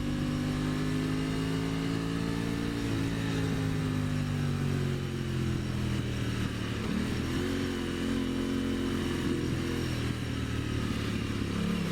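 2023 Aprilia Tuono 660's parallel-twin engine running under way uphill. Its note slowly falls for about six seconds, dips briefly and picks up again about seven seconds in, then climbs near the end.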